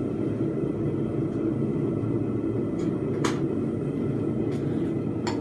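Blacksmith's forge running with a steady low roar while bars heat in the fire, with two light metal clinks, one a little past the middle and one near the end.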